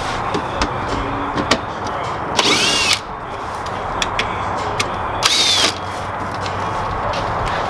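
Cordless power tool with a 10 mm socket, spinning in two short bursts to back out the mud flap bolts on a Toyota Tundra, its motor whirring up and down each time. Light clicks of the socket and bolts in between.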